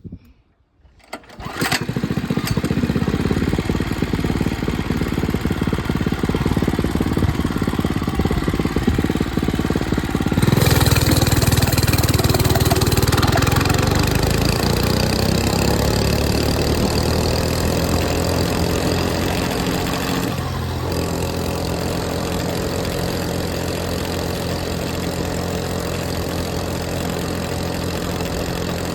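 A 105cc mini bike engine starts up about a second and a half in and runs steadily. It gets suddenly louder around ten seconds in, then settles into a steady idle.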